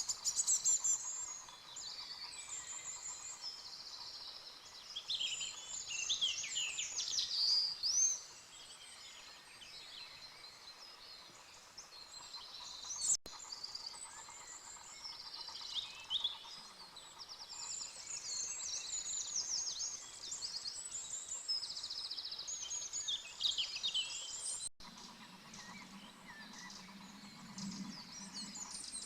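Several songbirds singing, overlapping trills and chirps, with a low hum joining in the last few seconds.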